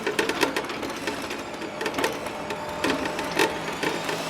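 Rapid, irregular clicking and rattling, with a faint steady tone underneath.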